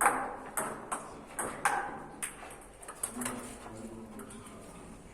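Table tennis rally: the celluloid ball clicking off rubber paddles and bouncing on the table in quick, uneven succession, with a light ring after each hit. The hits thin out and stop about three seconds in.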